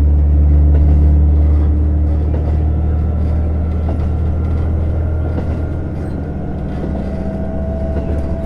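JR Hokkaido KiHa 150 diesel railcar running under power, heard from inside the passenger car: a loud, steady low diesel engine drone over rail and running noise, easing a little after the first couple of seconds.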